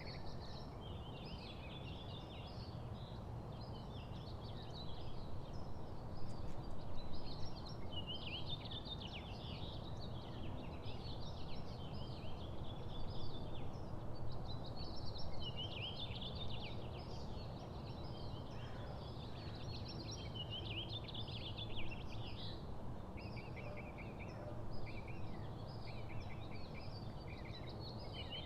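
Several small songbirds chirping and trilling continuously, their calls overlapping, with a run of short evenly repeated notes near the end, over a steady low background rumble.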